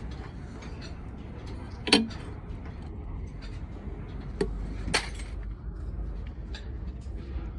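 Metal tools and engine parts clinking and knocking against each other, a scatter of sharp clicks with one louder ringing clink about two seconds in, over a steady low hum.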